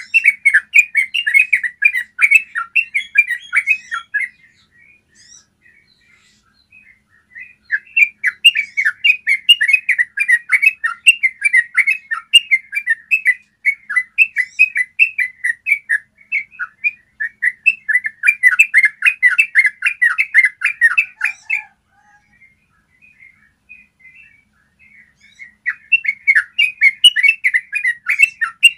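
Yellow-vented bulbul singing its long rolling 'ropel' song: runs of rapid, quickly repeated chattering notes. A long run breaks off at about 4 s, a second run lasts about fourteen seconds, and a third starts near the end, with only scattered single notes in the pauses.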